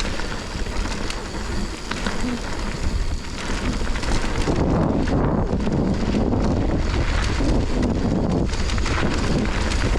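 Wind buffeting the microphone of a rider's camera during a mountain bike descent, a steady rush of noise that grows heavier and stronger about halfway through.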